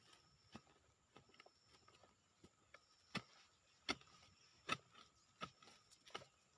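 A series of faint, sharp knocks, irregular at first, then evenly spaced about every three-quarters of a second through the middle, over a faint steady background hum.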